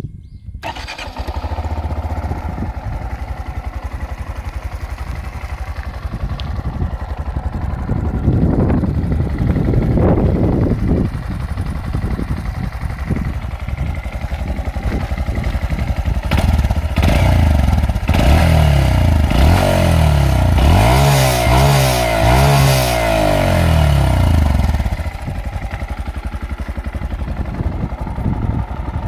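Honda Monkey 125's air-cooled single-cylinder four-stroke engine, through its stock muffler, starts about half a second in and idles. It is blipped a few times, then revved up and down repeatedly for several seconds before dropping back to a steady idle near the end.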